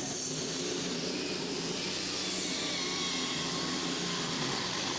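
Pulling truck's diesel engine running hard at high revs under load while dragging the pulling sled, a steady loud drone.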